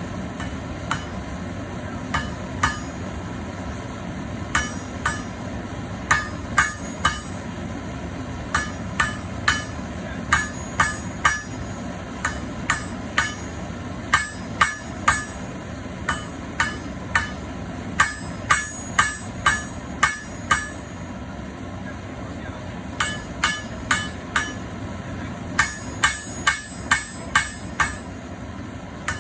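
Hand hammers striking hot steel bar on an anvil, two smiths taking turns to draw out a taper. Sharp ringing blows come in runs, about two a second, with short pauses between runs.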